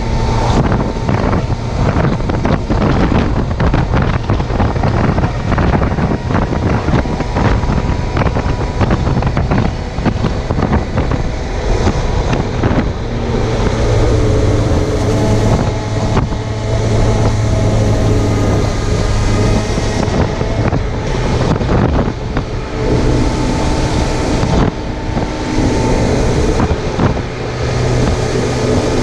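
Suzuki GSX750F's inline-four engine running at road speed under heavy wind buffeting on a chest-mounted microphone. The steady engine note comes through more clearly from about halfway through.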